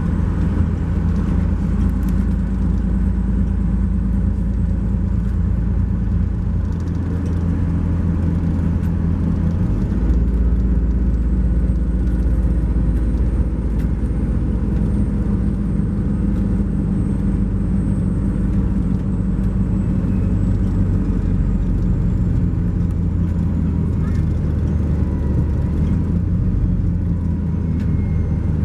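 Cummins ISX12 diesel of a 2012 MCI J4500 coach running under way, heard from inside the coach. It is a steady low drone with road noise, and its pitch steps twice about a quarter and a third of the way through.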